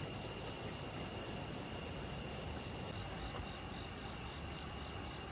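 Steady outdoor hiss with insects chirping in short, high, evenly repeated pulses.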